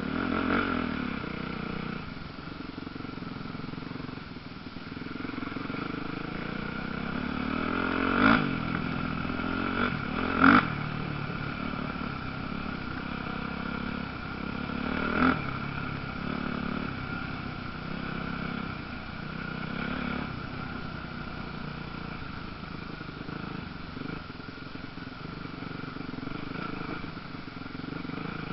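Motocross dirt bike engines running and revving up and down, with three short sharp cracks in the first half.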